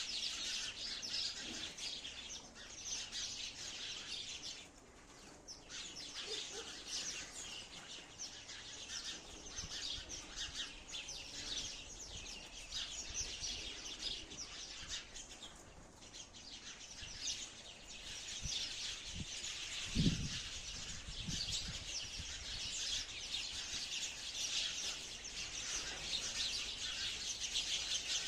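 A flock of sparrows chirping together, a dense, continuous chatter of many overlapping quick chirps. A brief low thud about two-thirds of the way through.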